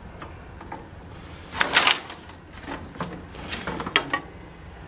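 Lengths of trim molding being shuffled and handled, scraping and knocking against each other: a loud scrape about one and a half seconds in, then more scraping with a few sharp knocks near the end.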